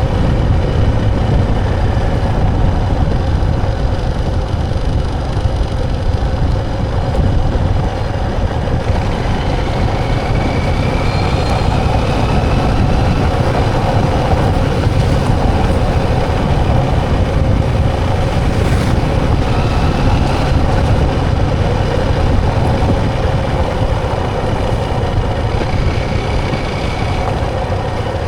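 Motor vehicle engine running steadily, with a strong low rumble underneath.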